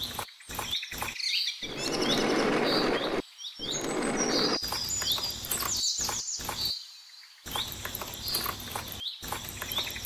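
Small birds chirping in quick, short calls over a steady outdoor noise. The sound cuts out completely several times for a fraction of a second.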